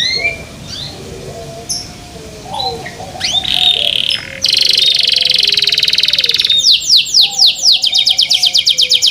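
Domestic canary singing: a few short chirps, then a loud, fast trill from about three seconds in, which turns about two-thirds of the way through into a rapid run of repeated down-sweeping notes, about five a second.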